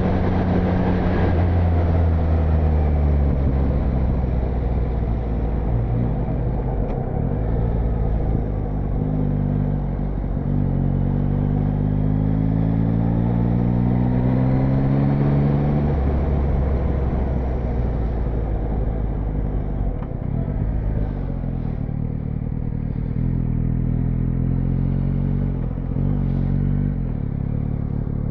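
Motorcycle engine running on the move, its pitch climbing steadily under acceleration from about a third of the way in, then dropping back at a gear change, with shorter rises later on.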